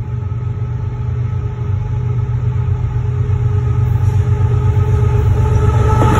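Diesel freight locomotive approaching along the track. Its low engine rumble grows steadily louder as it nears, with a faint steady whine above it.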